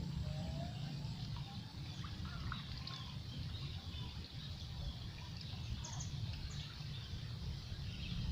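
Small birds chirping in short scattered calls, over a steady low rumble.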